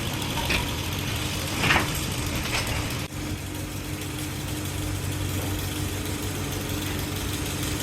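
A machine running with a steady low hum, with a few short clinks in the first three seconds and an abrupt change about three seconds in, after which the hum goes on evenly.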